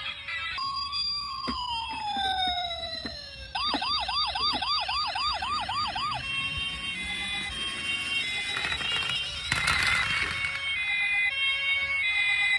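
Electronic siren sounds: a long falling wail, then a fast warbling yelp of about three cycles a second for roughly three seconds, then a stepped, beeping high electronic tone pattern to the end.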